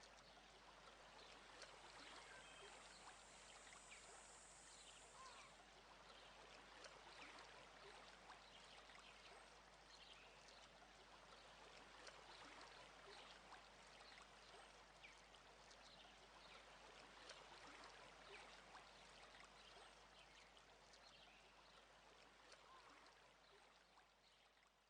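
Faint, steady trickling water with many small scattered drips, fading out at the very end.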